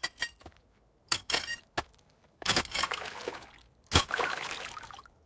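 Water sound effect: a few short splashes and trickles, then a longer run of pouring, splashing water with a sharp splash about four seconds in.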